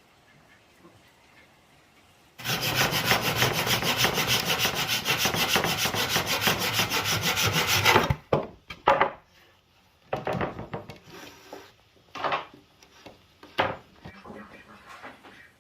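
A tool rasping on wood: a loud, fast, even scraping that starts suddenly, runs for about six seconds and cuts off, followed by a few short scrapes.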